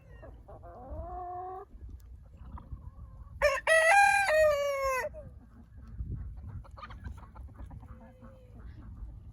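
A rooster crowing once, about three and a half seconds in, lasting under two seconds and the loudest sound here. A shorter rising animal call comes before it, about half a second in.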